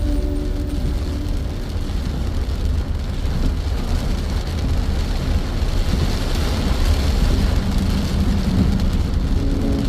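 Heavy rain falling, a steady hiss with a deep low rumble beneath it.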